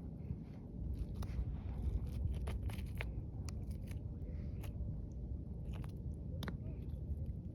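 Sharp, irregular clicks and crunches of broken beach glass and pebbles, over a low wind rumble on the microphone.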